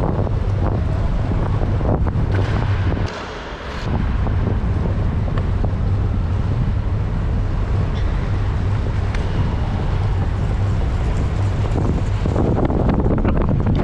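Wind rushing over a GoPro Hero 8's microphone while riding a track bike round a velodrome, with a steady low rumble; it drops away briefly about three seconds in.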